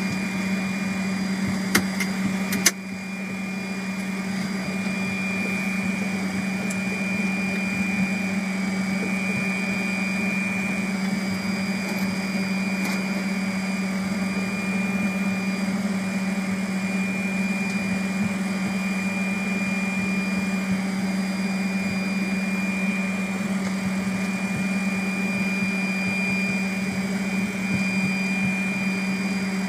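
Steady cockpit noise of a Fokker 100 on the ground after landing: a constant low hum with a high steady whine over a noise bed. Two sharp clicks come about two and three seconds in; after the second the noise dips, then builds back up over a second or two.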